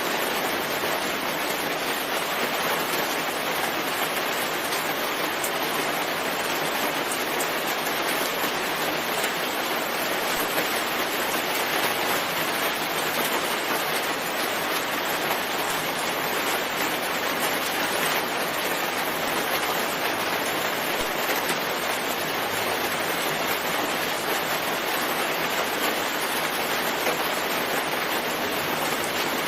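Steady rain, an even rushing hiss that does not let up or change.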